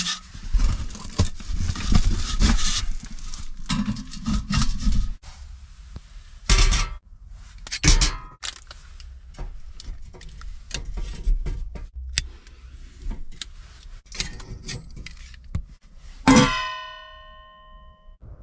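Metal parts of a heating stove being handled while it is being lit: irregular knocks, clicks and scraping, then one sharp ringing metal clang near the end.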